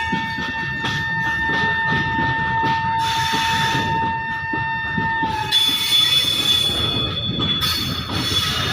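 Goods train wagons rolling past with steel wheels squealing in a steady high tone that jumps to a higher pitch about five seconds in, over the rumble and clatter of the wagons.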